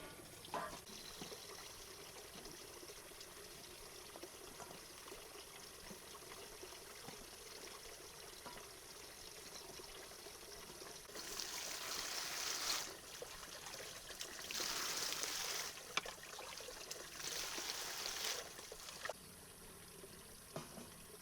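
Water pouring in three short spells of a second or two each, with a faint trickle between them and a few light knocks.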